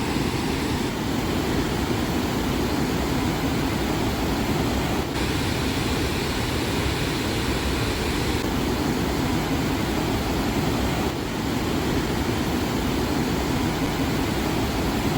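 Flood-swollen river pouring over a dam: a loud, steady rush of water.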